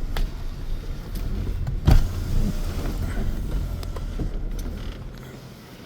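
Low rumble of a car with one sharp knock about two seconds in; the rumble fades away near the end.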